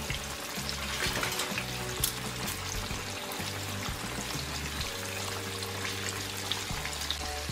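Hot oil sizzling and crackling with small pops as flour-coated chicken pieces fry in a pan. Background music with held low chords plays underneath.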